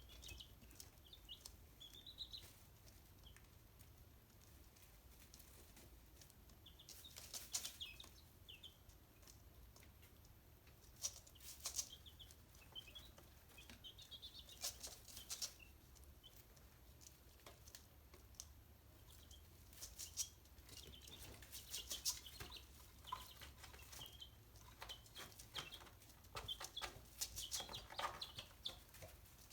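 Chickens pecking at live mealworms: clusters of sharp pecking taps every few seconds, with short soft peeps and clucks in between.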